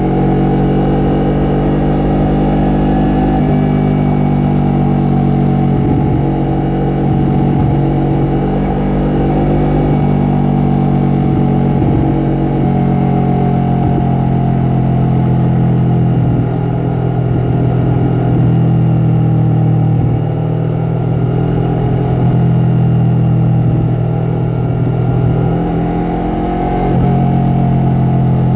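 Yamaha MT-03's parallel-twin engine and exhaust running while riding, holding a fairly steady engine speed with a few brief dips in loudness.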